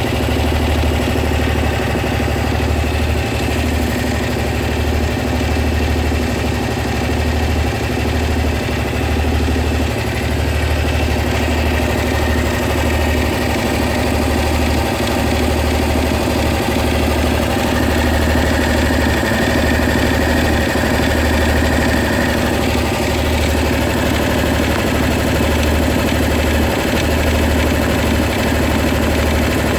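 Honda SH 300i scooter's single-cylinder engine idling steadily with a ticking noise, which the owner believes is a sign of something going wrong though mechanics have told him it is nothing.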